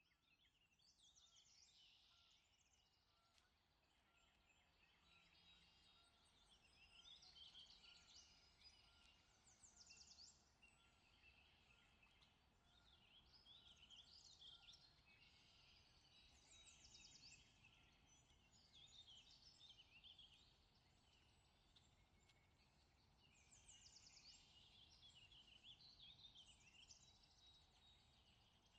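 Faint birdsong: short chirping, warbling phrases repeated every second or two over a low steady background hum.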